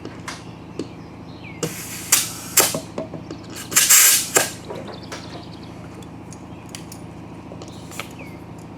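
Short bursts of compressed air hissing from an air chuck into a lawn mower tire's valve stem, with a longer, louder burst about four seconds in and a few clicks between: the tire being topped up from about 10 psi toward its rated 14 psi.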